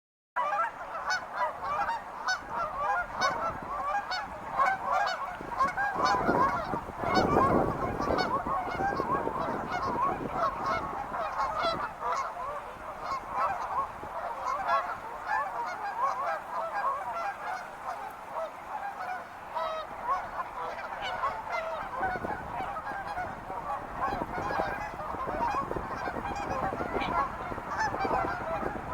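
A large flock of birds calling, a dense chorus of many overlapping short calls, starting suddenly and loudest for a couple of seconds about a quarter of the way in.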